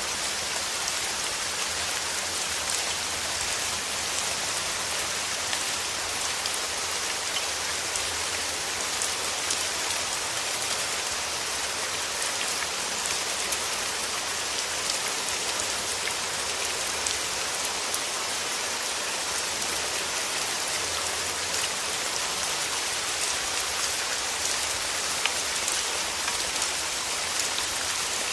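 Steady rain falling on rose petals and leaves: an even hiss with many small, separate drop taps, brightest in the high range and unchanging throughout.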